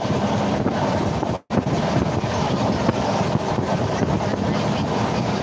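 A moving train heard from a window: the carriage's steady rumble and rattle, with wind buffeting the microphone. The sound cuts out for a split second about a second and a half in.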